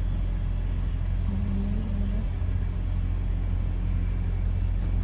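Steady low rumble of a car, even throughout with no revving.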